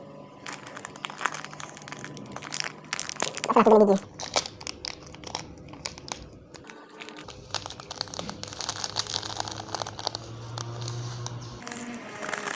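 Plastic instant-ramen seasoning sachets crinkling and tearing as they are opened and squeezed out, a dense run of small crackles. Just before four seconds in comes a short, louder, pitched vocal sound.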